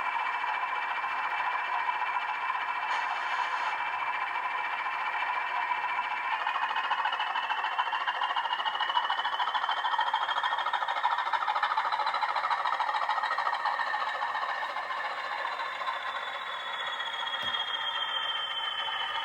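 Model diesel locomotive's sound decoder playing diesel engine sound through its small speaker, a steady running sound with a whine that rises in pitch over several seconds and then slowly falls.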